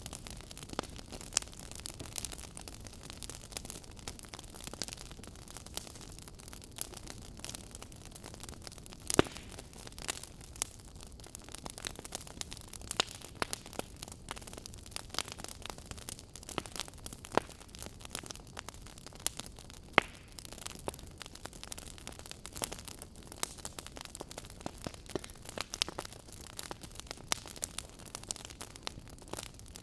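Wood fire burning in a fireplace, crackling with frequent irregular pops and snaps over a low steady rush of flame; a few louder pops stand out.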